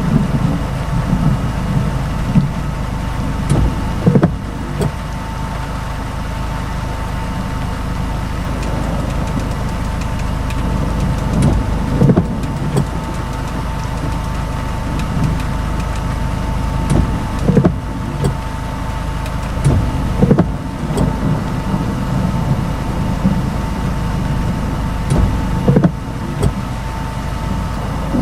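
Car engine idling, heard from inside the cabin: a steady low hum with a thin steady whine, broken by irregular short low thumps.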